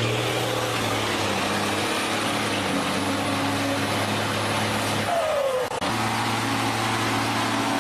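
Heavy diesel truck engine running steadily under load off road; about five seconds in it briefly drops away with a short falling whine, then picks up again.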